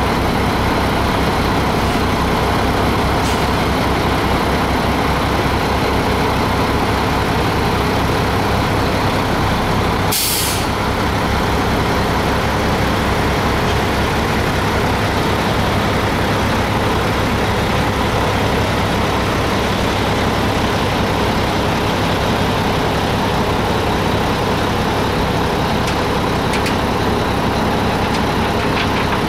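2005 Mack tri-axle dump truck's diesel engine idling steadily, with a short hiss of air from the truck's air system about ten seconds in.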